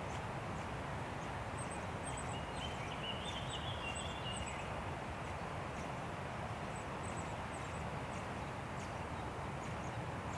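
Wind rushing steadily through forest trees, with thin high bird chirps scattered throughout. A short bird call comes in about two seconds in.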